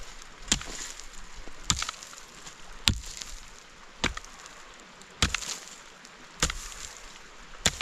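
Seven evenly spaced blows of a heavy hand tool, about one every 1.2 seconds, each a sharp knock.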